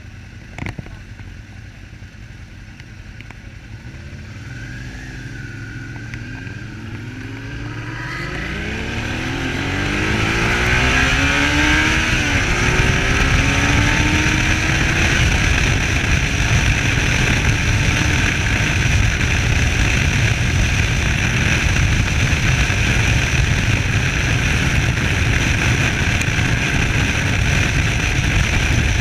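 Suzuki SV650S's V-twin engine pulling away, its pitch rising for several seconds, then a loud, steady rush of wind and engine noise at road speed from about ten seconds in.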